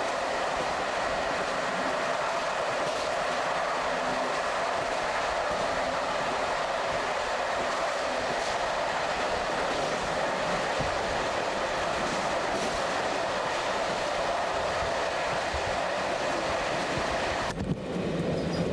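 A passenger train running along the track, heard from on board: a steady rumble and rattle of the rail car in motion. The sound changes abruptly near the end.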